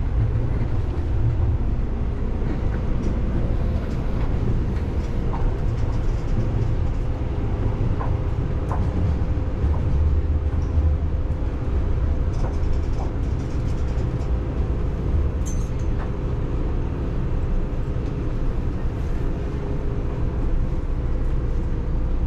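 Seibu Shinjuku Line electric commuter train running on the rails, a steady low rumble with a faint steady hum, heard from inside the train.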